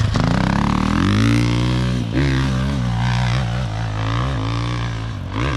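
Enduro dirt bike engine revving hard on a steep climb, held in second gear. The revs rise over the first second, then stay high, with brief dips about two seconds in and near the end.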